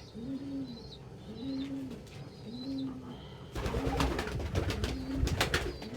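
Domestic pigeons cooing: a low coo that rises and falls, repeated about once a second. About halfway through, a burst of rustling and scuffling noise with sharp taps joins the cooing.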